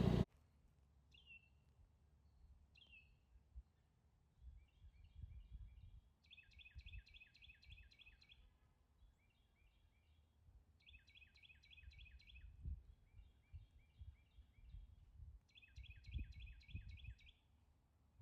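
Faint songbird singing: repeated phrases of quick, high chirps, each phrase a second or two long and coming back every couple of seconds, over a faint low rumble of wind.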